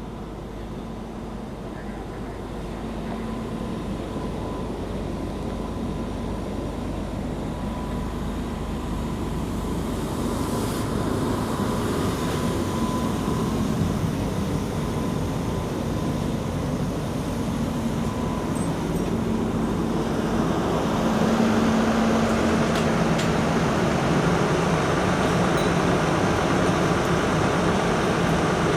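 Steady engine rumble with a faint hum, growing gradually louder and stepping up about twenty seconds in.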